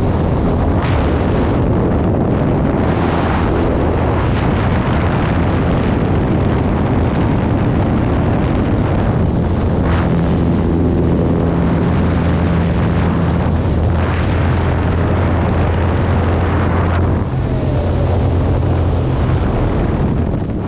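Loud, steady wind rush buffeting the camera microphone during a skydiving freefall, with a constant low drone underneath.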